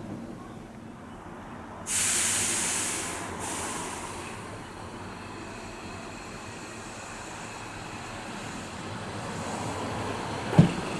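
Nose Electric Railway 7200-series electric train standing at a platform: about two seconds in, a sudden loud burst of compressed-air hiss from its air brakes fades out over a second or so. A steady low running hum follows, and two sharp knocks near the end come as its wheels start to roll over the rail joints.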